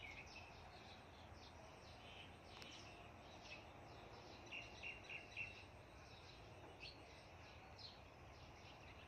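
Near silence with faint, scattered bird chirps over a low outdoor background hiss; about halfway through comes a quick run of four short chirps.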